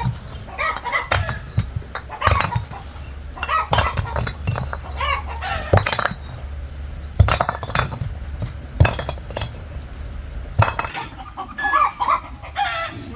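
Chickens clucking in short, repeated calls, with scattered sharp knocks among them and a steady high tone behind.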